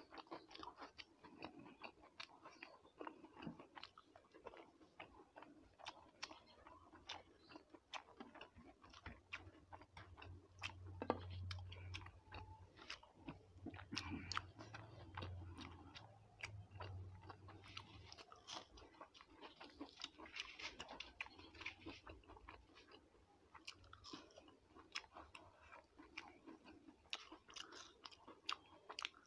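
A person chewing food with her mouth near the microphone: quiet wet chewing with many small clicks, while her fingers pick food off a plate. A faint low hum sits underneath for several seconds midway.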